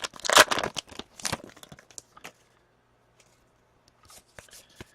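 Crinkling and tearing of a hockey card pack's wrapper as it is opened and the cards handled: a flurry of sharp crackles and rustles for about two seconds, then a few faint ticks.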